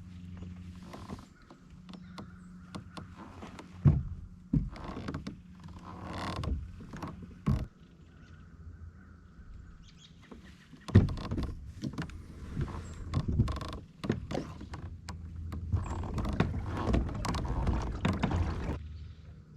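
Kayak being paddled: irregular swishes and splashes of the paddle in the water, with sharp knocks, the loudest about 4, 7.5 and 11 seconds in, over a steady low hum.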